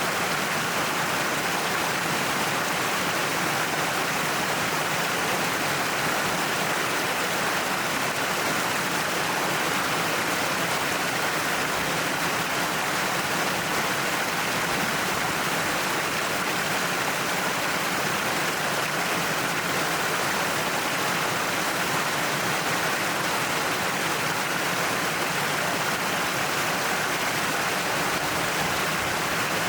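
Waterfall: water pouring down a cliff and splashing, a steady, unbroken rush.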